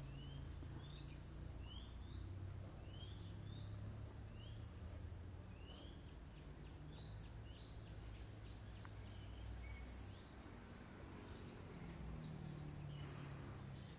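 Small birds chirping: short, rising chirps repeated one or two a second, over a low steady background hum.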